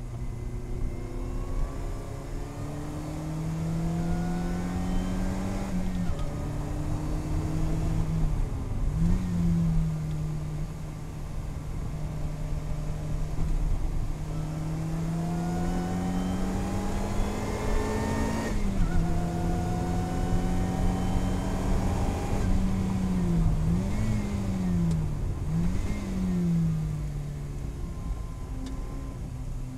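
Lotus Elise Cup 250's supercharged four-cylinder engine heard from inside the cabin, pulling hard through the gears with its pitch climbing steadily and dropping on upshifts, about six seconds in and again past halfway. Quick rev blips on downshifts come once about nine seconds in and twice near the end as the car brakes for a corner.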